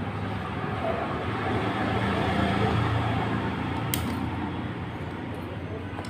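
Steady low mechanical rumble with a hiss over it, swelling toward the middle and easing off, with one sharp click about four seconds in.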